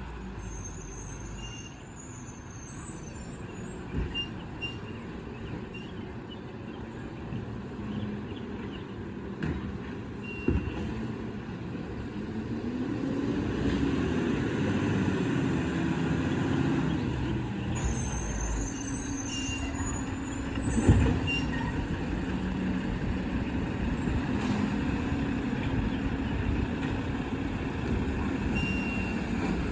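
Mack LR garbage truck with a Labrie Automizer side-loader body, its engine running steadily and rising then falling in pitch about halfway through. Scattered metal clanks and knocks, the loudest about two-thirds of the way in.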